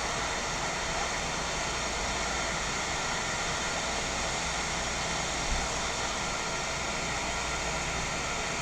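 Hot air rework station blowing a steady hiss of air, heating a chip on a laptop motherboard to desolder it.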